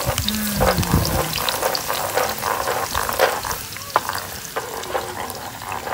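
Chopped garlic and bird's-eye chillies frying in hot oil in a frying pan, sizzling and crackling while a wooden spatula stirs and scrapes them around the pan; the garlic is being fried until golden.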